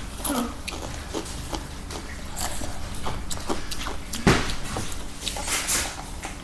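Irregular crisp crunches of someone chewing Takis rolled tortilla chips, the loudest about four seconds in.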